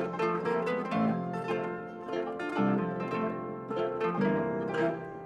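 Background music of plucked string notes, like harp or pizzicato strings, in a light repeating melody.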